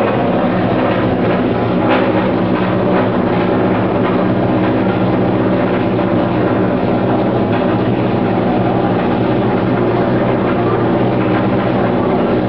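BMW E36's engine running at a steady speed, an even drone that holds the same pitch with no revving.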